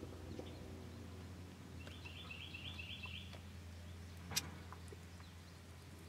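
A bird's quick series of about seven high chirps, about two seconds in, over a faint steady low hum; a little later a single sharp click.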